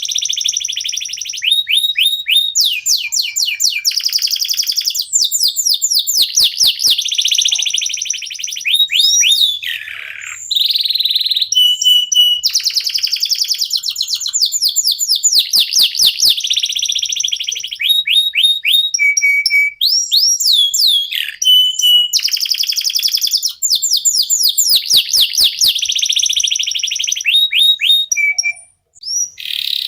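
Domestic canaries singing a long, fast song of rapid repeated chirps and trills that switch to a new run of notes every second or two, with only brief breaks.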